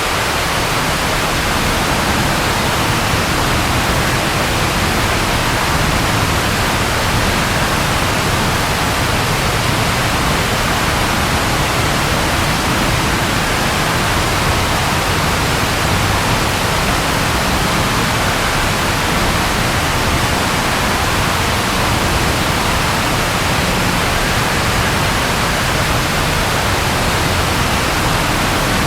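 Steady rainfall, an even hiss with no change in level and no thunderclap.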